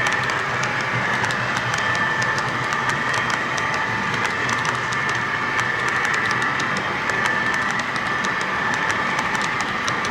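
HO scale model train running on the layout: a steady high motor whine with a rapid, uneven clicking of wheels over the track.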